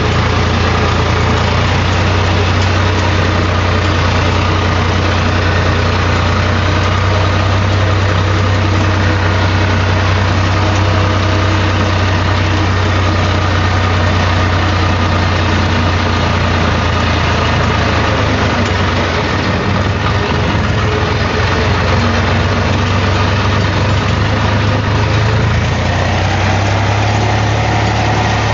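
HMT tractor's diesel engine running steadily with a deep, low note. Its tone changes slightly about two-thirds of the way through and again near the end.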